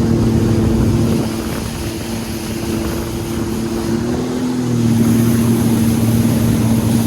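A steady engine drone with a low hum, dipping in level about a second in and rising slightly in pitch about four seconds in before settling again.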